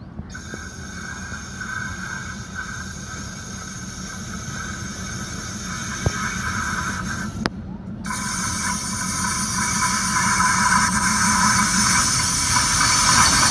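An approaching diesel-hauled passenger train: locomotive engine and rail noise growing steadily louder as it nears. The sound drops out briefly about seven and a half seconds in and comes back louder and brighter.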